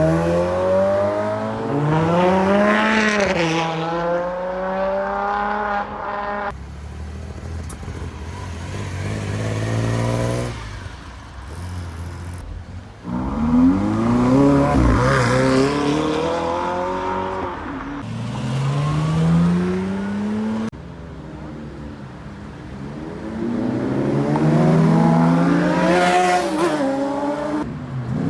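Ferrari sports cars accelerating away one after another, each engine's pitch climbing hard and then dropping at a gear change. About four separate pull-aways, with quieter engine sound between them.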